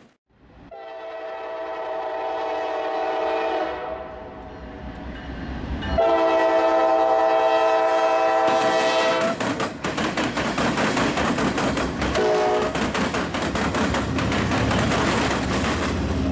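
Norfolk Southern diesel locomotive's multi-chime air horn sounding two long blasts and then a short toot, over the running of the locomotive. The horn then gives way to a loud, steady clatter of the stack cars' wheels rolling over the rail crossing diamonds.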